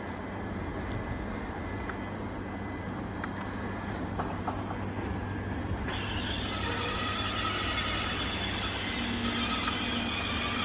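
Train running with a steady low rumble and a few light clicks. About six seconds in, a steady high-pitched squeal made of several tones sets in suddenly and holds.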